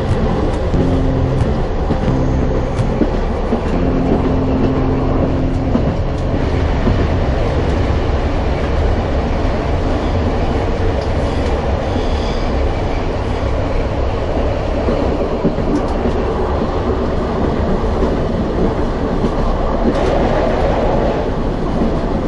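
Narrow-gauge train running along the track: a steady rumble of wheels and running gear, with a low hum through the first six seconds or so.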